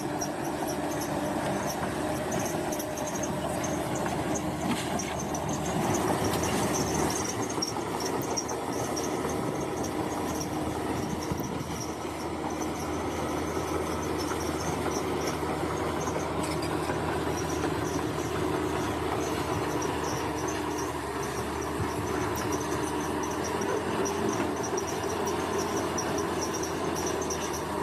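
Bulldozer's diesel engine running steadily, with a high, pulsing insect chirr above it.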